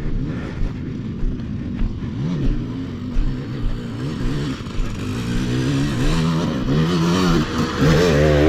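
Dirt bike engine running under varying throttle, its pitch rising and falling repeatedly, growing louder near the end.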